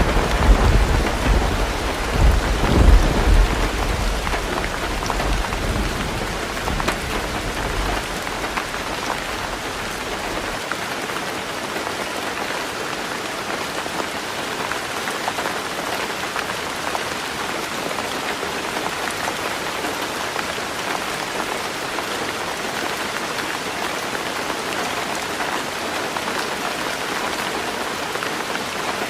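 Heavy rain falling steadily on a tin roof. A roll of thunder rumbles through the first few seconds, loudest near the start, and dies away about ten seconds in.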